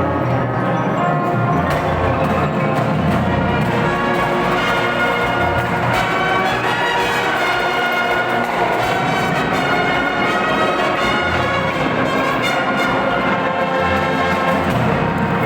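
Marching band playing: brass instruments with percussion, a full continuous ensemble passage.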